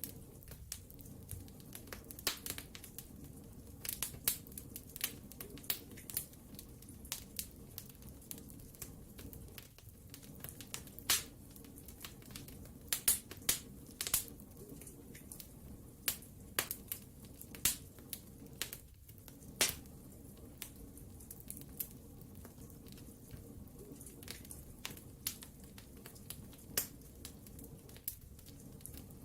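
Wood fire burning in a fireplace: irregular sharp pops and crackles of the burning logs over a steady low rumble.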